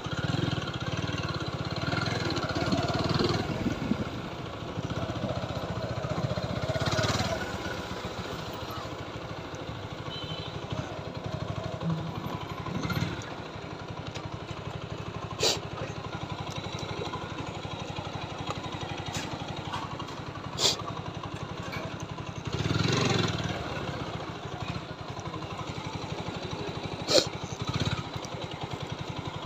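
Motorcycle engine running steadily. It swells louder in the first few seconds, again about seven seconds in, and again past twenty-two seconds. Three sharp clicks or knocks come in the middle and near the end.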